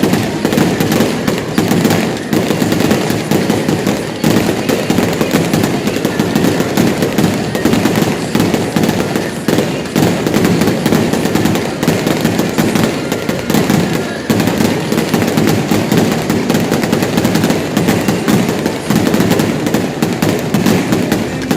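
Fireworks going off in a continuous rapid barrage of bangs and crackles, many reports a second with no break.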